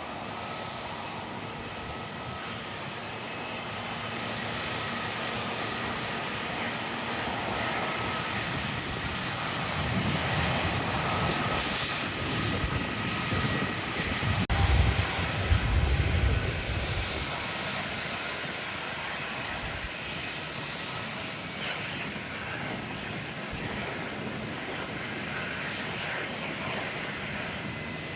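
Jet airliner passing low overhead. Its engine whine and noise build up, peak about fifteen seconds in with a heavy low rumble, then fade away.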